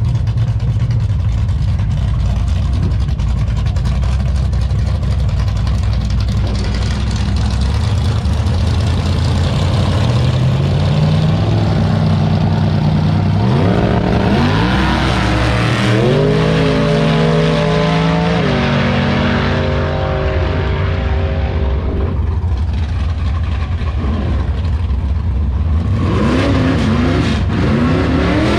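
Drag-race car engines running loudly at idle. About halfway through, one car accelerates hard, its engine pitch climbing and then dropping twice at gear changes before fading; near the end another engine revs up.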